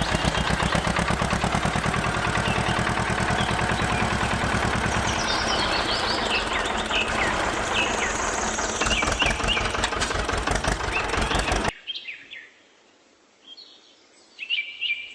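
A small engine running steadily with a fast, even pulse while birds chirp over it; the engine cuts off abruptly near the end, leaving only the birds chirping.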